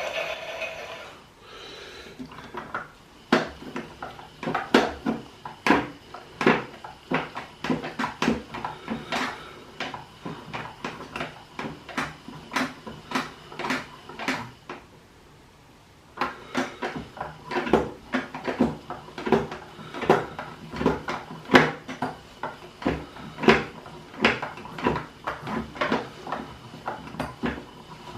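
Klein toy Miele washing machine: an electronic tone stops about a second in, then the toy drum turns with irregular plastic clicking and clunking, several knocks a second. The clicking stops briefly just past halfway, as a wash rhythm pauses, then carries on.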